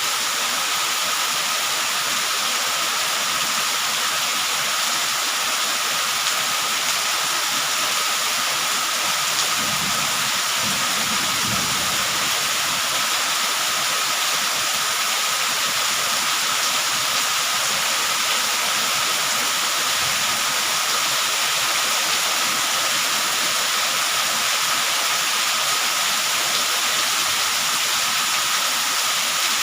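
Steady rain falling, an even hiss that holds at one level throughout, with a faint low rumble for a couple of seconds about ten seconds in.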